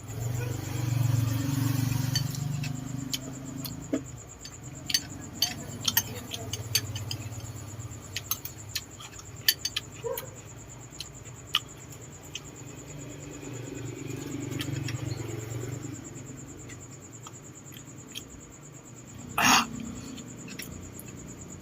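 Close-up eating sounds of balut duck eggs: scattered clicks and taps of eggshell and dishes, with a low steady sound of chewing, and one louder knock about nineteen seconds in.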